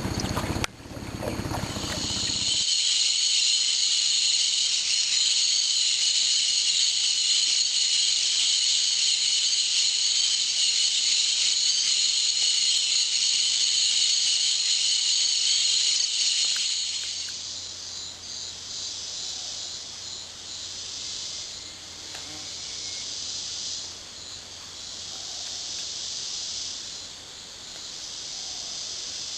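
Amazon rainforest insect chorus: a loud, steady, high-pitched buzzing drone that drops about halfway through to a softer chorus swelling and fading every couple of seconds. A short rush of broad noise comes at the very start.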